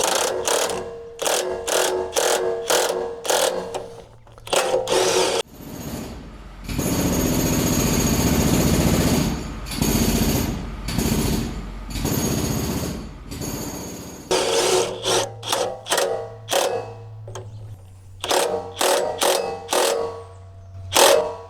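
Metal tool work on a steel sawmill track: a run of quick metallic clacks, each with a short ring, a steady mechanical whir from about six to fourteen seconds in, then more clacks.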